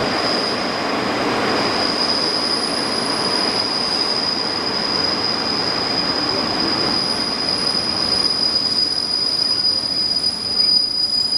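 Running noise of a train heard from inside a passenger coach: a steady rumble of wheels on rail with a thin, steady high whine over it.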